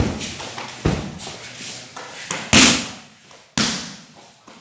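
Four sharp thuds of pencak silat strikes landing during training, unevenly spaced, the third the loudest with a short ringing tail.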